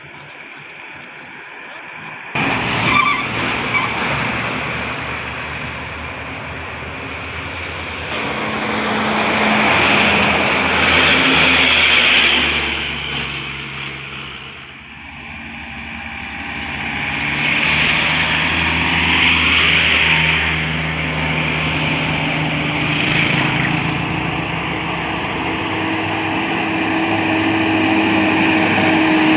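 Motor vehicles driving past on the road, their engines and tyres rising to a peak and fading away twice. The noise starts abruptly a couple of seconds in.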